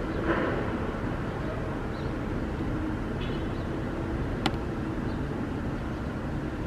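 Steady city traffic rumble with one sharp tap about four and a half seconds in: a drop of water from an upstairs window air conditioner landing on a windowsill.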